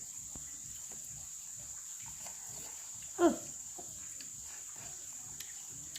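A single short animal call, loud and falling steeply in pitch, a little over three seconds in, over a steady high-pitched background tone and a few faint knocks.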